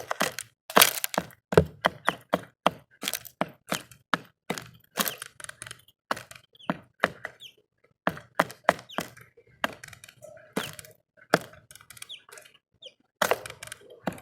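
Birds pecking at a bird feeder close to the microphone: rapid, irregular sharp taps and cracks of beaks striking the feeder and seed, several a second, with a brief lull about two-thirds of the way through.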